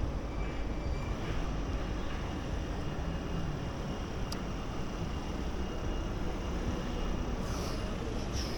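Steady urban background rumble, like traffic noise, with a faint thin high tone running through it and a single sharp click about four seconds in.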